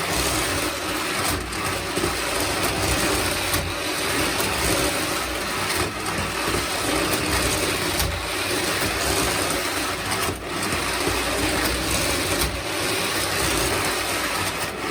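Postwar Lionel motorized toy-train unit running on track, its small electric motor and gears whirring steadily, with a sharp click about every two seconds.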